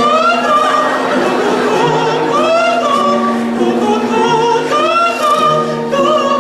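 Live musical-theatre singing with accompaniment: a high voice carries the melody in held, gliding notes over steady lower sustained notes.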